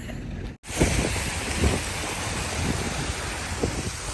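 Wind buffeting the microphone in a snowstorm: a steady, dense rush of noise that starts after a brief dropout about half a second in.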